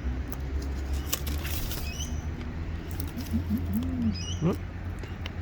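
Wild parrots feeding on seed and nuts: scattered small clicks and crunches of beaks working the food, with a few faint high chirps. A steady low hum runs underneath.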